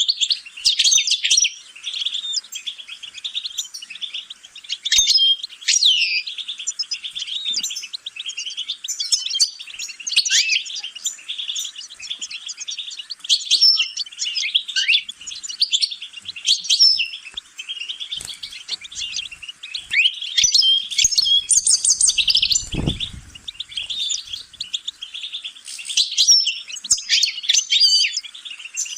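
A songbird singing a long, continuous, rapid twittering song of quick chirps and short trills, with a brief low thump about three quarters of the way through.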